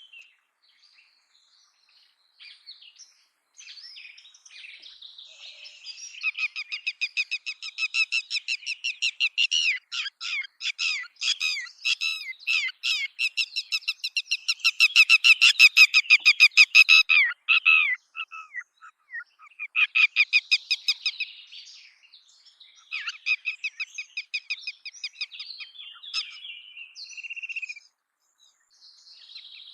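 Red-wattled lapwing giving its alarm call near its eggs: fast runs of sharp, high, repeated notes in bouts with short pauses, loudest about halfway through.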